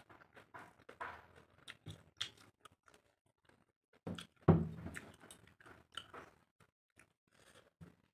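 Close eating sounds: chewing and small wet mouth clicks as rice and prawn curry are eaten by hand, with one louder thump a little after four seconds in.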